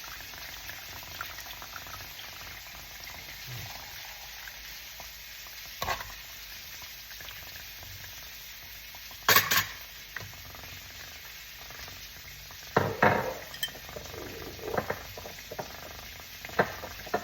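Caramel sauce with Coke and soy sauce sizzling in a frying pan while a spoon stirs it, knocking against the pan a few times, loudest about halfway through and again near the end.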